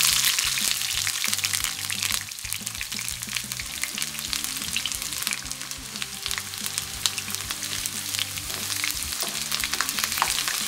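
Sliced green bell peppers sizzling and crackling in hot olive oil in a nonstick frying pan, stirred with a spatula near the end.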